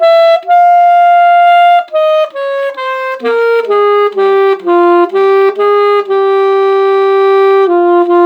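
Alto saxophone playing a slow unaccompanied melody. A long high note is followed by a falling run of shorter notes, then a long lower note and a final, slightly lower held note.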